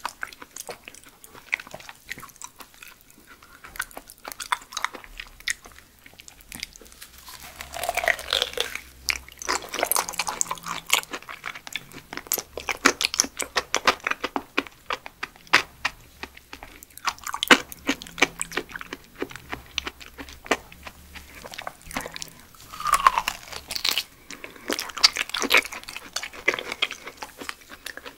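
Close-up chewing and biting of raw yellow stingray sashimi and liver: wet, sticky mouth sounds and smacks with crunchy bites.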